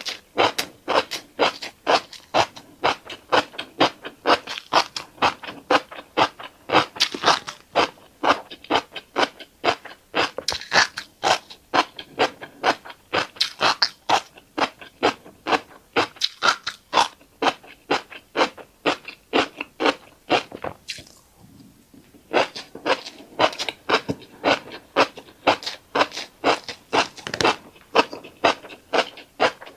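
Close-miked crunchy chewing of a mouthful of tiny black seeds: a rapid, regular run of crisp crunches with a brief pause about two-thirds of the way through.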